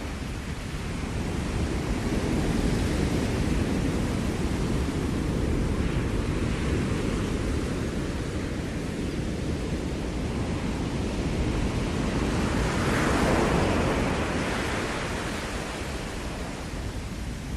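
Ocean surf breaking and washing on a Maui shore, a steady rushing wash that swells twice, most strongly about thirteen seconds in as a wave breaks, then eases off.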